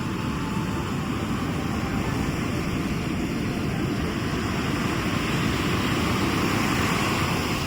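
Sea surf washing onto the shore with a steady low rumble, swelling a little toward the end.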